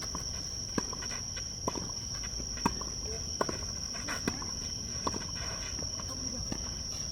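Tennis ball struck back and forth in a rally, a sharp pop of racket or bounce about every second. A steady high insect drone runs underneath.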